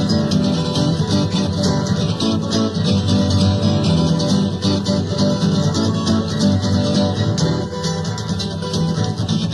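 Instrumental passage of a live folk-rock band: acoustic guitars strummed steadily with a rattling shaker keeping time.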